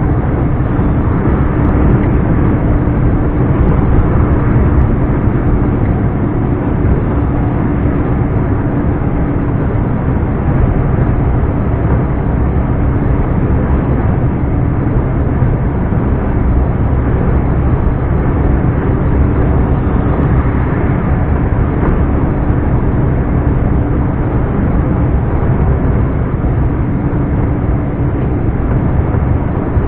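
Scania R420 truck's turbocharged inline-six diesel engine running steadily while driving, its pitch holding level throughout.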